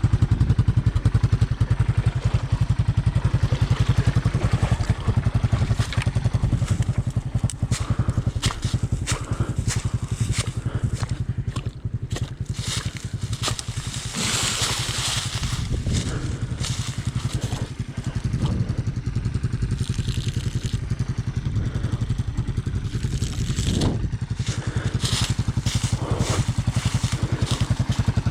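Honda ATC 200M three-wheeler's single-cylinder four-stroke engine running steadily, with knocks and clatter throughout. About halfway through there is a brief hissing burst.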